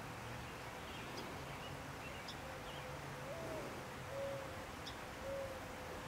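Faint bird calls over a steady hiss: three short, low, clear notes about a second apart in the second half, with thin high chirps earlier.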